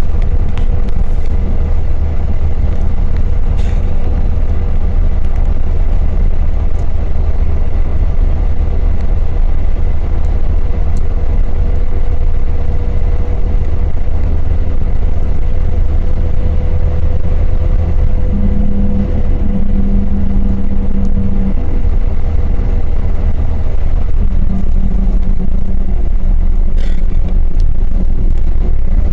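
Train running steadily at speed: a constant low rumble with a steady humming tone over it, holding an even level throughout.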